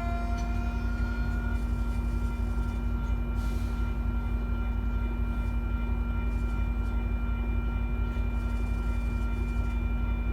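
Metra diesel locomotive running steadily, with a continuous low engine rumble and a steady hum. A higher pair of tones ends about a second in.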